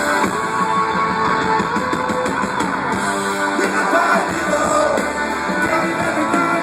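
Live rock band playing, with guitars to the fore.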